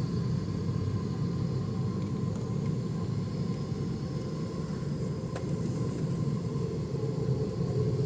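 Qantas Boeing 717 with its Rolls-Royce BR715 jet engines, a steady low rumble with a faint thin tone above it, typical of the airliner on the ground around taxi.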